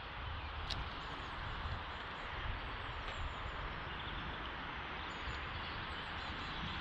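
Steady outdoor noise with wind rumbling on the microphone, and a few faint bird chirps in the middle.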